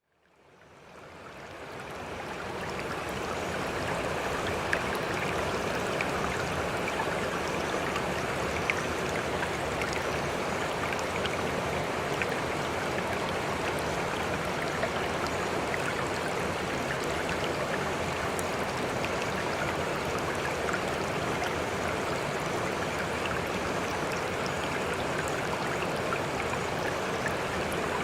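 River water flowing steadily, fading in over the first few seconds, with a few faint ticks scattered through it.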